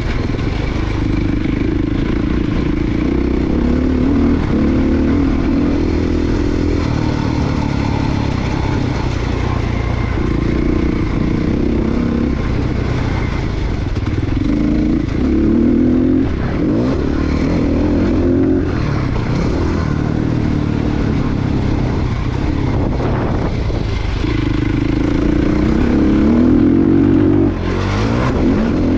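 Motocross dirt bike engine revving hard, its pitch climbing and dropping again and again through the lap as the throttle opens and closes and the gears change.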